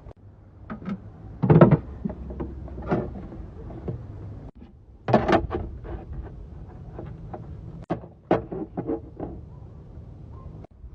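Irregular knocks, clunks and rattles of work on the boat, over a low steady hum; the sound cuts off abruptly a few times.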